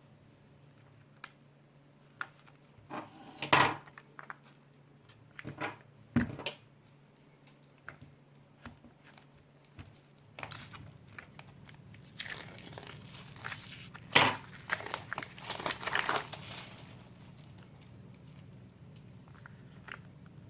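Packaging being handled and opened: crinkling and tearing, with scattered clicks and knocks. The loudest bursts come about three and a half seconds in and again about fourteen seconds in.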